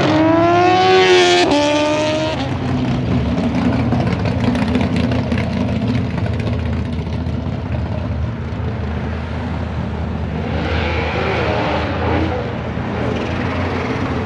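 A car engine revving hard under full acceleration, its pitch climbing steeply and breaking off about a second and a half in, then a steady low engine rumble. About ten seconds in comes a second, shorter burst of acceleration that is cut off, typical of traction control stepping in as the tyres lose grip.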